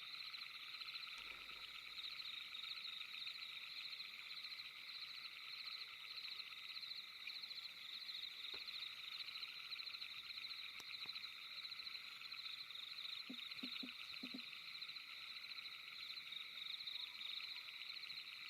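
Faint, steady chorus of small calling animals, a high, rapidly pulsing chirring that holds unchanged throughout, with a few soft low knocks about two-thirds of the way through.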